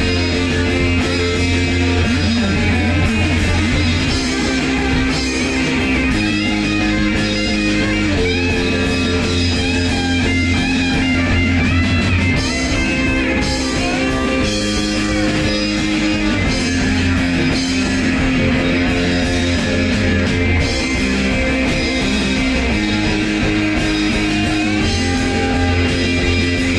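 Rock band playing an instrumental passage: electric guitar over bass and drums, with bending lead guitar lines about ten to fourteen seconds in.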